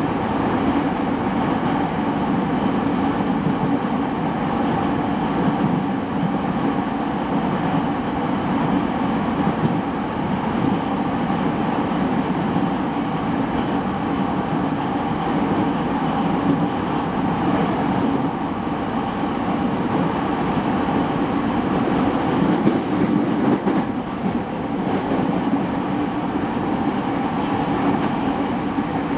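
Running sound inside a motor car of a renewed JR East E217-series electric multiple unit: a steady rumble of wheels on rail and traction equipment as the train runs along.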